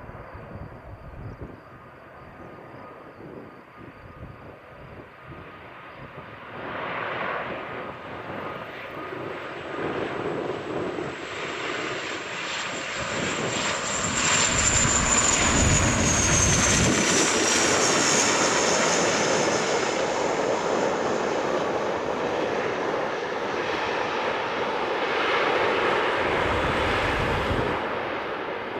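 De Havilland Canada Dash 8 turboprop airliner approaching to land and passing by, its engine and propeller noise growing louder. A high whine drops in pitch as it goes past, and the engine noise stays strong before easing off near the end.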